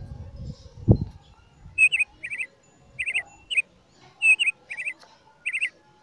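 A small bird chirping, repeating short quick clusters of two or three notes about every half second from roughly two seconds in. Before that there is a low rumble and a dull thump about a second in.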